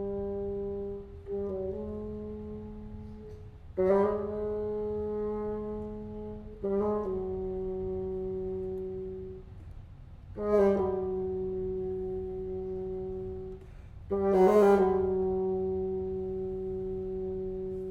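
Contemporary chamber music for solo bassoon and ensemble: long held notes in two voices about an octave apart. Each note enters with a sharp accent and slowly fades, with a new entry every three to four seconds.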